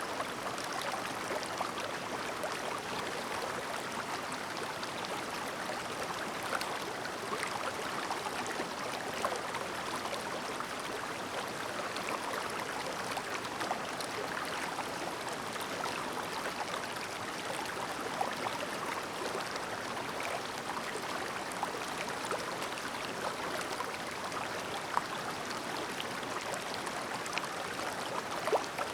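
Shallow clear mountain stream babbling over stones, a steady close rush of water with many small splashes and gurgles.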